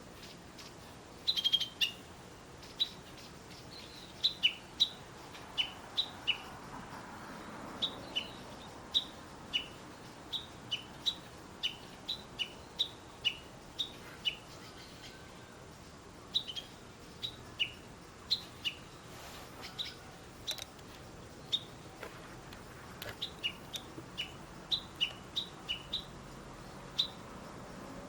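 Bird chirping: short, high notes, often in quick falling pairs, repeated roughly once a second over a faint steady background hiss.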